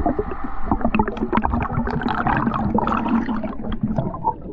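Water gurgling and bubbling around an underwater camera, with many small clicks and crackles and a low steady hum through the middle.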